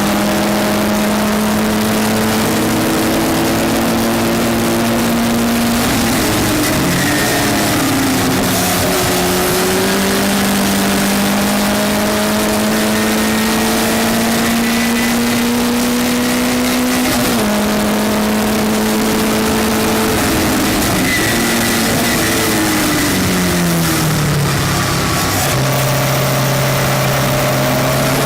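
Westfield race car engine pulling hard, its pitch climbing slowly through the revs, with drops in pitch about 6, 17 and 20 seconds in at the upshifts. Near the end it steps down quickly through several downshifts and settles at a lower note, over steady wind and road noise.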